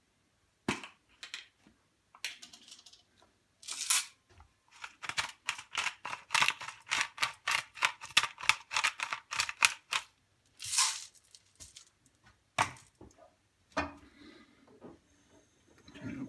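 Pepper being added to the pan: a run of quick, rhythmic rasping strokes, about five a second for roughly five seconds. A few separate clicks and knocks come before it, and one louder burst comes just after it.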